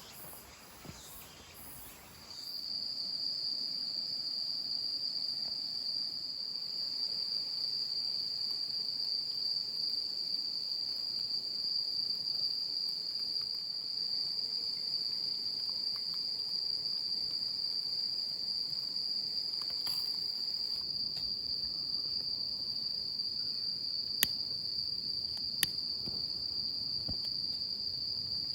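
Steady, high-pitched, unbroken insect trill that begins about two seconds in and holds its pitch. Two sharp clicks come near the end.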